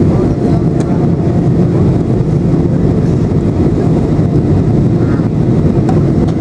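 Steady low rumble of a Boeing 737-800's engines and rushing airflow, heard inside the passenger cabin during descent.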